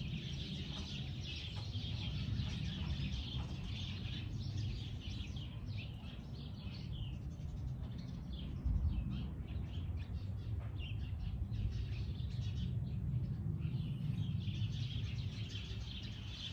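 Small birds chirping continuously in a dense, overlapping chorus, over a steady low rumble of outdoor background noise.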